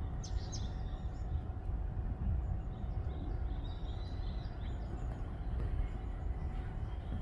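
Wind buffeting the microphone as a steady low rumble, with small birds chirping faintly over it: a few quick chirps at the start and a run of twittering in the middle.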